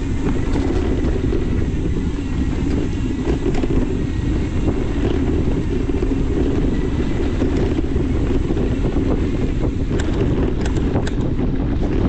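Wind buffeting the microphone over the rumble of bike tyres rolling on a dirt trail while riding a mountain bike, with a few sharp clicks and rattles near the end.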